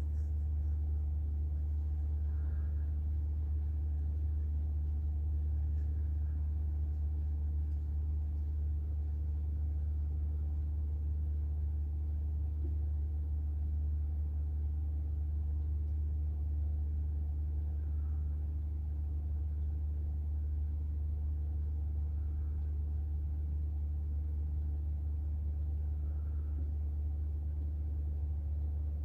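A steady low hum that holds at an even level throughout, with faint soft sounds every few seconds above it.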